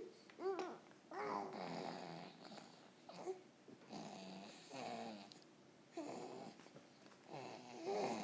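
A person's voice making silly non-word sounds: short pitched yelps that bend up and down, mixed with raspy, breathy noises, coming in separate bursts about a second apart.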